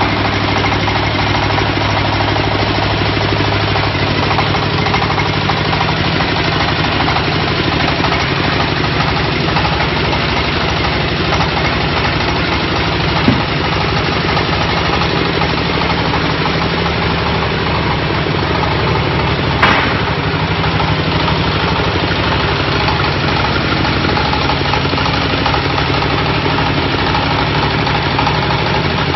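Small diesel engine of a portable jaw stone crusher running steadily with a dense mechanical clatter, broken by two sharp knocks about a third and two thirds of the way through.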